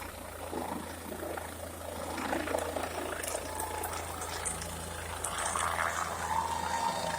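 A steady low engine hum with irregular rattling noise over it.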